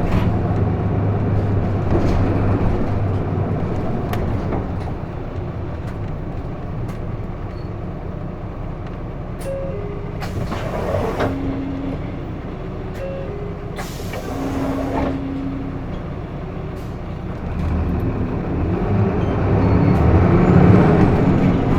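Hino Blue Ribbon II city bus heard from inside the cabin: the diesel engine runs lower for a while, with two hisses of compressed air from the air brakes or door system about 10 and 14 seconds in and a few short electronic tones. Near the end the engine grows louder and climbs in pitch as the bus accelerates.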